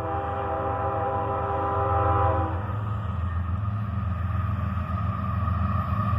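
Diesel locomotive's multi-chime air horn sounding one long chord as a horn salute, cutting off about two and a half seconds in, over the steady low rumble of the approaching freight train, which grows louder near the end.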